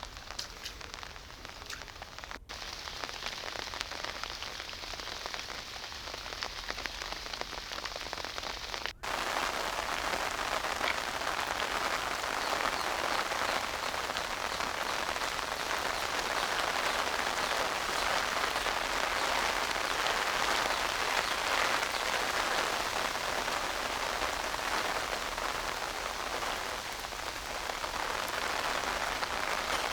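Steady rain falling, an even hiss of drops. It cuts out for an instant twice, and after the second break, about nine seconds in, it is louder and fuller.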